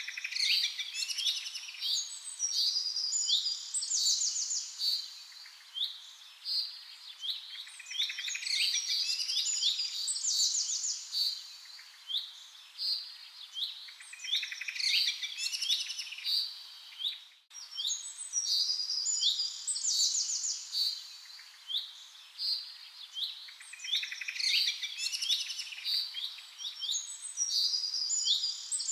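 Songbirds chirping and calling: many short, high chirps and quick trills, overlapping in dense bursts with short lulls between. There is a brief break a little past halfway.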